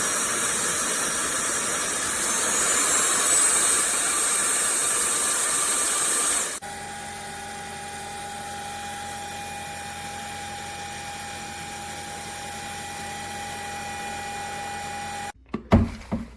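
Cordless stick vacuum's motor running with a high whine that steps up in pitch and loudness about three seconds in. About six and a half seconds in the sound drops abruptly to a quieter steady hum with a clear tone; this cuts off near the end and is followed by a few knocks.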